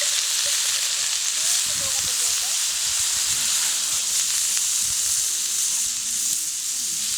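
Food frying in a pan over a campfire: a steady sizzling hiss.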